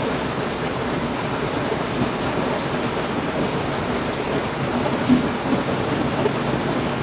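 Heavy rain falling steadily, an even hiss and patter with a brief louder moment about five seconds in.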